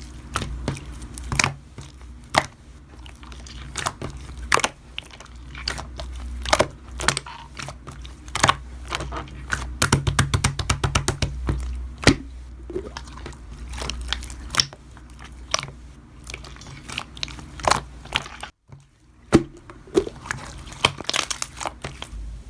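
Slime being squished and poked by hand: a string of sharp clicks and crackly pops, with a quick rattling run of them about ten seconds in.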